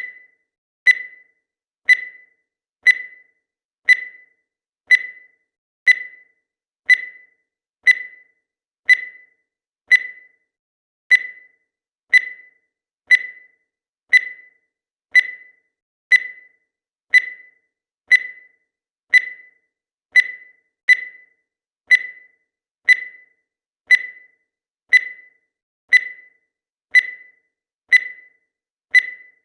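Countdown timer sound effect: a short, high beep once a second, each one fading quickly.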